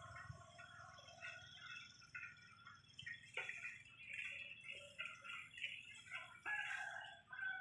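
Faint birds chirping: many short, high, irregular notes, with a couple of soft clicks.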